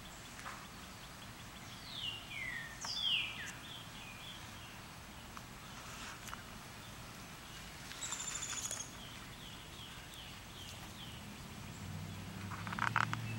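Wild birds calling: a few quick falling whistled notes about two seconds in, then a high buzzy note and a run of short chirps from about eight seconds in. A low hum comes up near the end.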